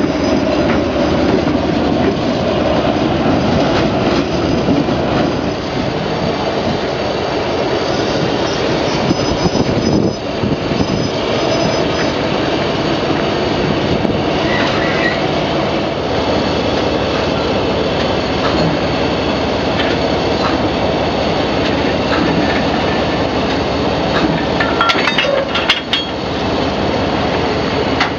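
Diesel-hauled train running: a loud, steady rumble of locomotive and rolling wagons, with a few brief high wheel squeals partway through.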